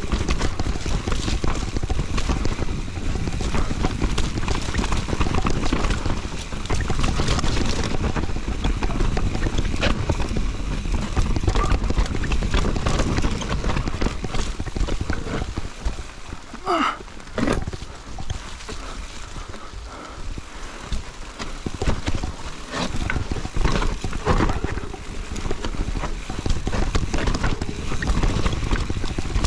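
Mountain bike rattling down a rough enduro trail: tyres rumbling over the ground with rapid clatter from the chain and frame. About halfway through the rattle eases and a short squeal rises and falls.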